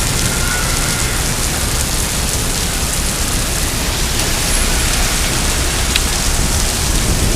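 Heavy rain pouring steadily and splashing on hard surfaces, a continuous hiss during a summer thunderstorm downpour.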